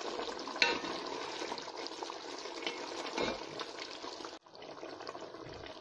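Beef curry simmering and bubbling thickly in a pot with small pops, at the stage where the oil separates and rises to the top. About four seconds in the sound cuts off abruptly to a quieter hiss.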